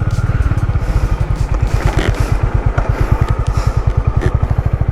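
Motorcycle engine running steadily under way, with an even, rapid pulsing beat from the exhaust.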